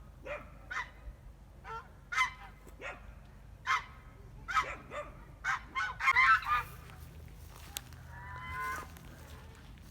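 Fowl calling: a string of short, sharp calls, busiest and loudest about six seconds in, followed by one longer drawn-out call near the end.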